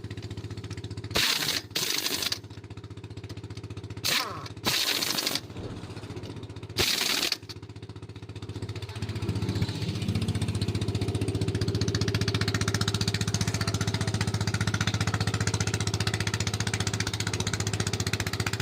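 Several short, loud bursts from a pneumatic tool in the first half, then an engine starts running steadily from about halfway through.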